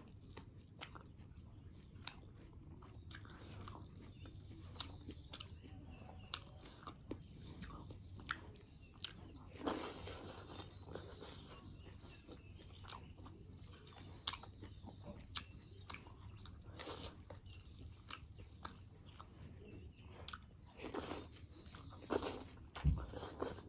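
Close-up eating sounds of a curry of small whole fish with rice eaten by hand: chewing and lip-smacking with frequent small mouth clicks, and a few longer, louder mouth noises about ten seconds in and near the end. A low thump comes just before the end.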